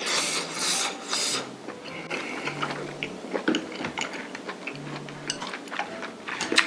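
Close-miked mouth sounds of eating chewy stir-fried webfoot octopus: three short slurps in the first second and a half, then a run of small wet clicks and smacks as it is chewed.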